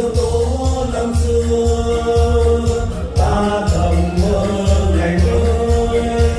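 A small vocal ensemble singing long held notes together over a recorded backing track with a steady bass beat and light percussion.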